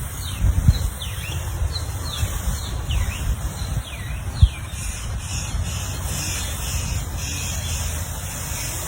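A small bird giving a quick series of short, falling chirps, about ten over the first four seconds, over a steady low rumble, with one sharp thump about four and a half seconds in.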